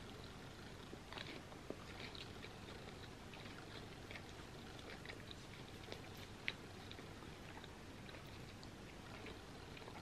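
Close-miked chewing of a soft, cheesy flour-tortilla quesadilla: quiet, wet mouth sounds with scattered faint clicks and a few sharper ticks.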